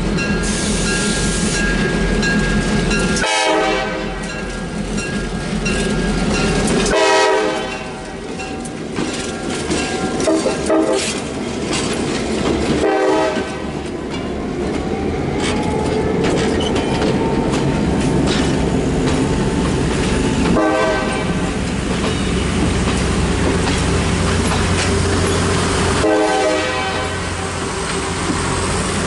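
Two EMD FP7A diesel locomotives pass at close range, their engines running under load, with the air horn sounding several times. The passenger cars follow, their wheels clicking over the rail joints.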